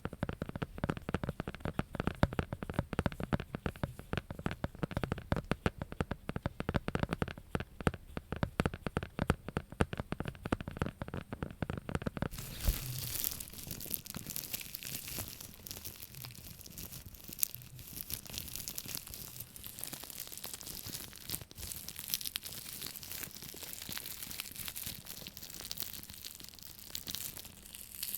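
Close-miked ASMR handling of an object: rapid, dense tapping for about the first half, then an abrupt switch about halfway through to fine, high-pitched crinkly scratching.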